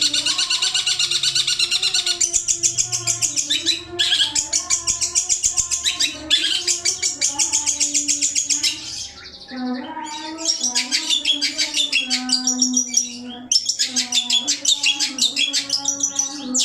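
Songbird 'masteran' recording: loud, fast, high chattering and trilling calls in runs broken by brief pauses, with a lower wavering tone running underneath.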